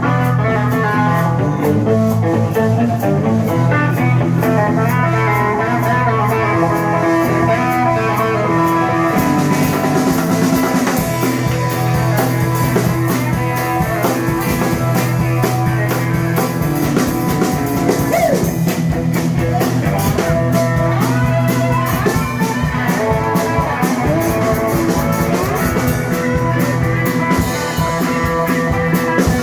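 Live blues band playing an instrumental intro: electric guitar with bass and a drum kit keeping a steady beat.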